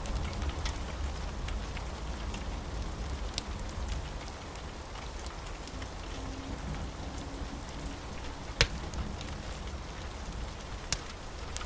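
Steady rain with a fireplace crackling, scattered sharp pops from the fire, one louder pop about two-thirds of the way through.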